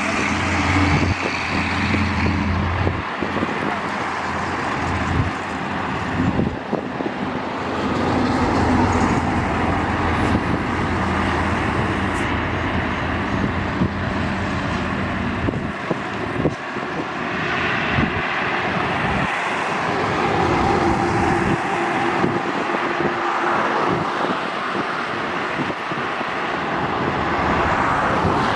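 Highway traffic passing close by: heavy trucks and cars, engine drone and tyre noise swelling and fading as one vehicle after another goes past.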